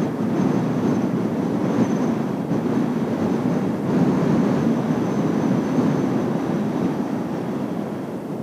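Jet aircraft engines, Kawasaki T-4 trainers of Blue Impulse, flying over the base: a steady rumbling roar with a thin high turbine whine above it, swelling slightly about halfway through.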